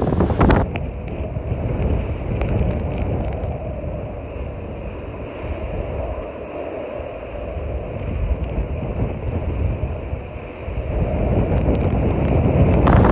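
Wind buffeting the microphone, a heavy low rumble that eases off in the middle and builds again near the end.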